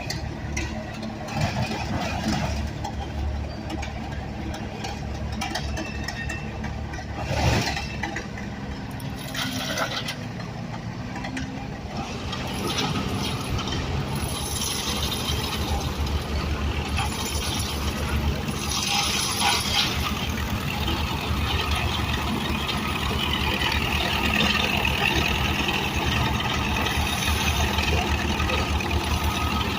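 An engine running steadily with some mechanical clinking, with one sharp knock about seven seconds in and a louder, noisier stretch in the second half.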